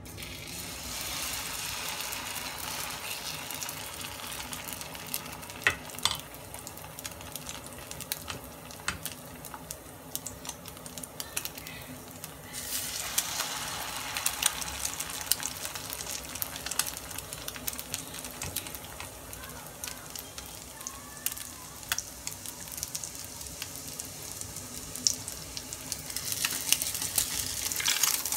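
Minced fish and egg patties sizzling in hot oil in a nonstick frying pan, with many small spattering pops. The sizzle swells as each spoonful of mixture goes into the oil, once at the start and again a little before halfway, and rises once more near the end as a patty is turned.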